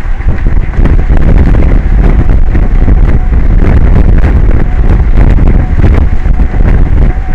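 Strong wind buffeting the microphone: a loud, continuous low rumble that surges and drops without pause.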